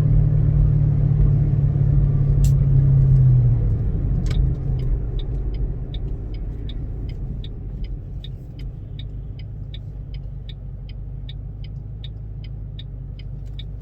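2006 Mustang GT's V8 engine running at low revs, then dying out about four seconds in as it is stalled on the clutch. A sharp click follows, then a steady light ticking about two a second over a low background rumble.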